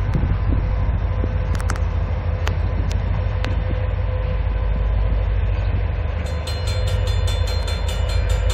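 Steady low rumble of an approaching diesel freight train led by an EMD GP35 locomotive. About three-quarters of the way through, a bell starts ringing rapidly.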